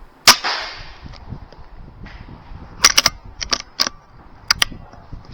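A single air rifle shot, a sharp crack with a short echo trailing off inside the shed. A few smaller sharp clicks and knocks follow a couple of seconds later.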